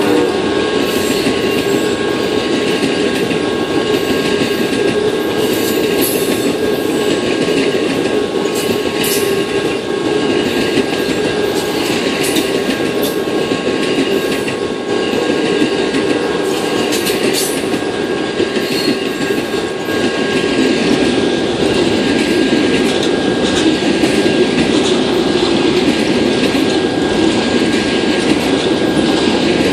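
Amtrak Auto Train cars rolling past at speed, bilevel passenger cars and then enclosed autorack car carriers: a steady loud rumble of steel wheels on rail, with scattered sharp clicks over the rail joints and a thin steady squeal above it.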